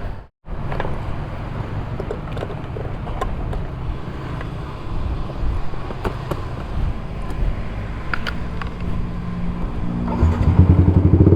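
Outdoor traffic and engine noise with scattered clicks. About ten seconds in, a Yamaha MX King 150's single-cylinder engine starts running through its Rob1 TGA aftermarket exhaust and gets louder.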